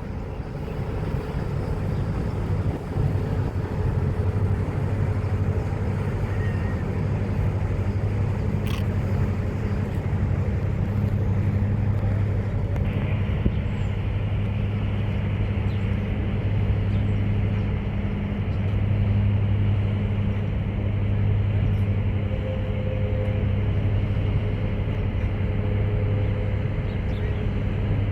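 A passing ship's engine giving a steady low drone, over a rush of wind and water noise.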